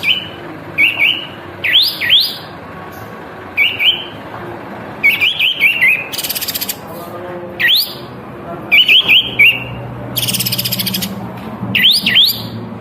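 A kapas tembak songbird singing energetically: short, sharp whistled notes in quick clusters of two to four, repeated every second or two. Twice, about halfway and again near the end, there is a harsh buzzing rasp, the second one longer.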